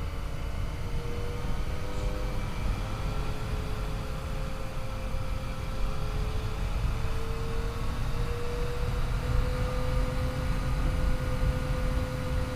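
Yamaha FJ-09's three-cylinder engine running at a steady cruise, its pitch rising a little in the second half as the bike picks up speed, under heavy wind rumble on the microphone.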